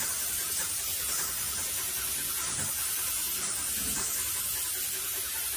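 Spray paint hissing steadily from the nozzle as a coat goes onto a garage door.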